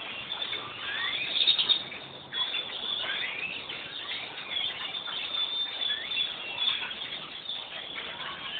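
A large flock of small birds chirping all at once in trees at their evening gathering: a dense, unbroken chorus of overlapping, mostly rising chirps.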